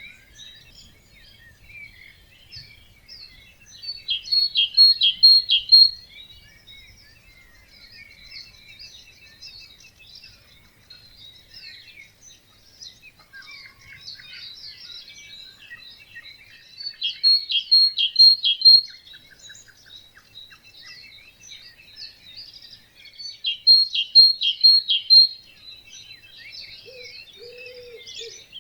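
Chorus of several birds singing in a wetland at dawn. One bird sings a loud short phrase of about five ringing notes three times, with a steady tangle of other birds' songs in between, and a lower call comes in near the end.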